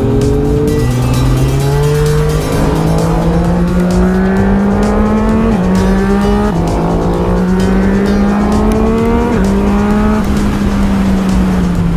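Yamaha MT-09 SP's three-cylinder engine through an Akrapovic exhaust, heard on board under acceleration: the pitch climbs steadily, drops sharply at gear changes about five and a half, six and a half and nine and a half seconds in, then falls away as the throttle closes near the end.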